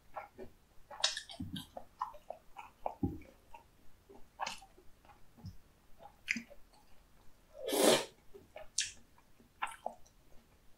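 Close-miked eating sounds: wet chewing of tteokbokki rice cakes in spicy sauce, with scattered short mouth clicks and smacks, and one louder, longer noisy burst about eight seconds in.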